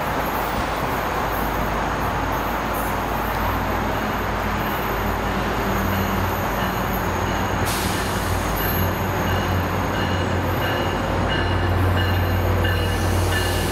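Tri-Rail commuter train's diesel locomotive pulling slowly into a station, its low engine hum growing louder as it nears. A repeating high ringing joins about six seconds in, with a short hiss about eight seconds in.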